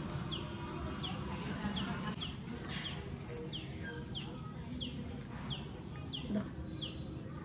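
A bird calling steadily, a short high chirp of two quickly falling notes repeated about twice a second.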